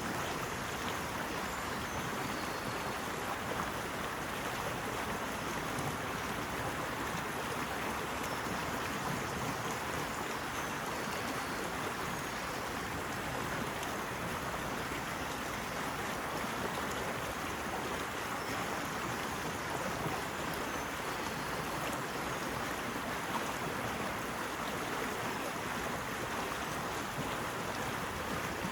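Steady rushing of flowing water, an even wash of sound with no swells or breaks.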